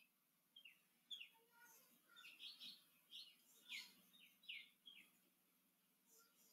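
Faint bird chirping: a quick run of short, high chirps, many falling in pitch, that stops about five seconds in.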